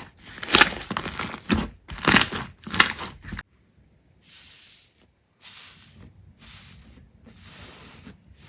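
Slime being squeezed and pressed by hand: a run of loud crackling, crunching squelches for the first three seconds or so. Then a sudden cut to softer, hissing squishes.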